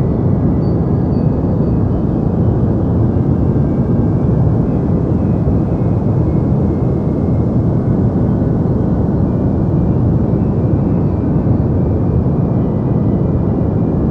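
Steady deep white noise, a continuous low rumbling hiss with most of its weight in the low range and little treble. It holds an even level with no changes or events.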